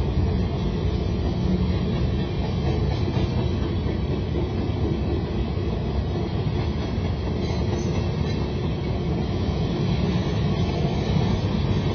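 Freight train cars (boxcars and covered hoppers) rolling past, a steady low rumble of steel wheels on the rails.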